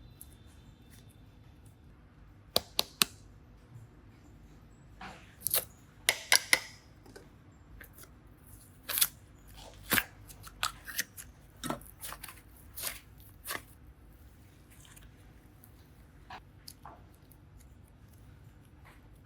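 Hands working slime and clay, giving irregular sharp clicks and crackles that come thick in the middle and thin out toward the end.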